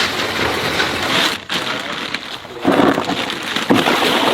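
Water splashing and pouring, with a short break about a second and a half in and a couple of louder splashes in the second half.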